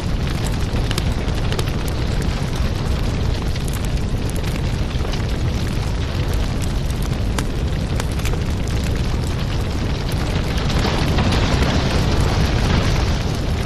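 Fireplace fire crackling: a steady low rush of flames with many small sharp pops, swelling a little louder near the end.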